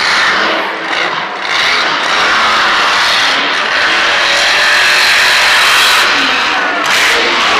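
Monster truck engine running loud and hard, a steady wall of engine noise that builds over the first two seconds and holds.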